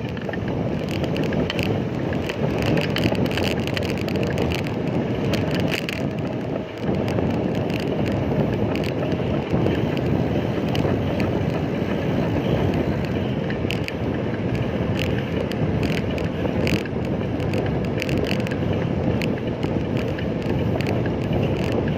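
Riding a bicycle: wind rushing over the microphone along with road noise, and scattered clicks and rattles from the bike.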